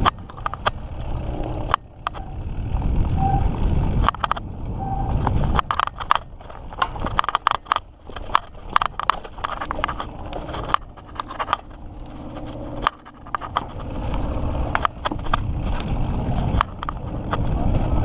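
Mountain bike being ridden over a rough dirt trail: tyres and wind rumbling on the microphone, with frequent rattles and clicks from the bike jolting over bumps.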